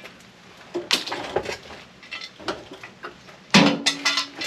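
Metal parts of a dismantled microwave clinking and knocking as they are handled and pulled apart: a sharp click about a second in, then a few lighter knocks, and a louder rattling scrape near the end.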